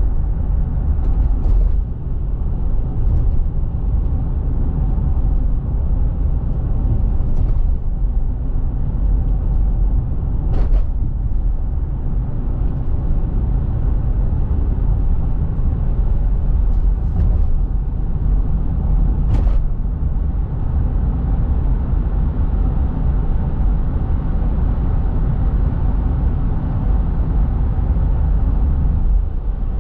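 Steady low rumbling noise, heaviest in the bass, with a few faint short ticks scattered through it.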